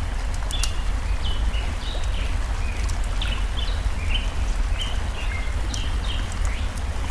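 Steady rush of a forest stream with a low rumble underneath, a songbird repeating short falling chirps several times a second, and sharp crackles of a wood fire scattered throughout.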